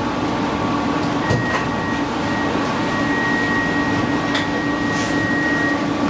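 Interior of a PESA Fokstrot tram running between stops: a steady rolling rumble and motor hum with a low drone, a thin high tone held from about a second in until near the end, and a few light clicks.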